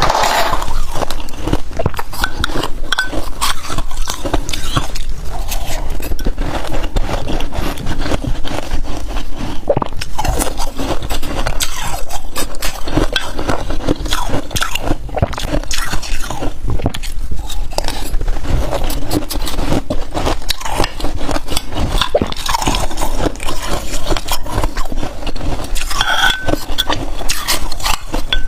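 Freezer frost being scraped, bitten and chewed, a dense run of crackly crunches with no pause.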